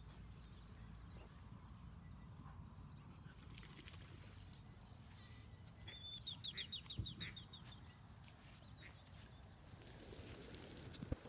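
A bird calling in a quick run of about ten short, high, clipped notes lasting a second and a half, over faint outdoor background; a few footstep scuffs on grass near the end.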